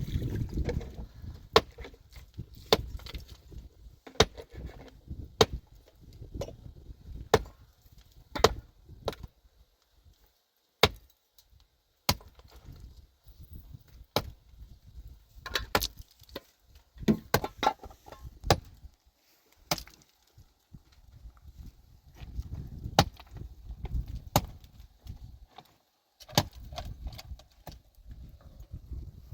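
Repeated sharp blows of a hand tool striking hard material, irregularly spaced at roughly one a second with short pauses, over a low rumble that comes and goes.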